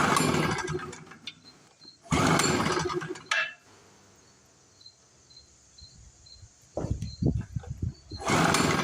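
Recoil starter of a small two-stroke portable generator pulled three times. Each pull cranks the engine for about a second without it catching, with a few loose knocks just before the last pull: the engine is not firing, which the owner puts down to no fuel reaching the carburettor.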